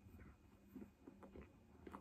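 Faint chewing of a mouthful of fish finger sandwich, with a few soft, scattered small clicks.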